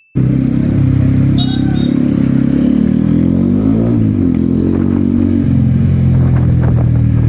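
Kawasaki Ninja ZX-10R inline-four engine running at low speed in traffic, its note shifting briefly in pitch about four seconds in.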